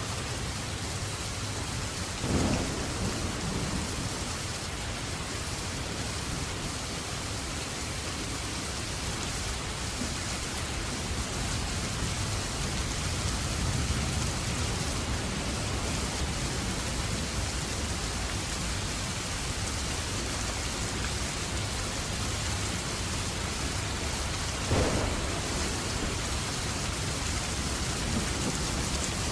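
Heavy, steady rain falling in a continuous hiss. Two short, louder sharp sounds stand out, one about two seconds in and one near the end.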